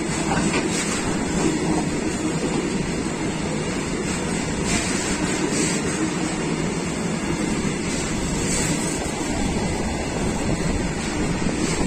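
Fully loaded open-top freight wagons rolling past close by: a steady, heavy rumble of steel wheels on the rails that neither rises nor falls.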